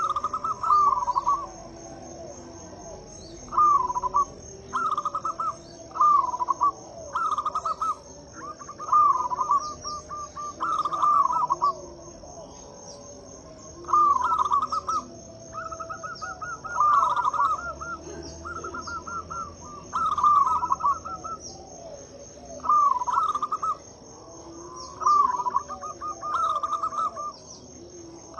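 Zebra dove (perkutut) cooing: short rolling coo phrases repeated every second or two, about a dozen in all. A steady, high, pulsing insect trill runs underneath.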